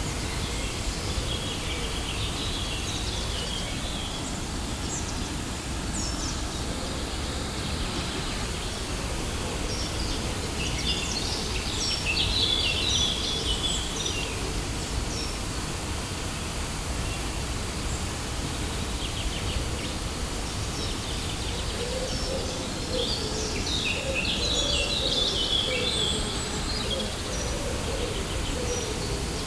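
Waterfall rushing steadily, with bursts of bird chirping over it near the start, in the middle and again near the end.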